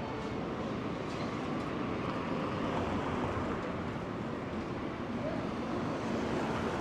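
Steady city street ambience: a continuous wash of traffic noise. A low steady hum comes in near the end.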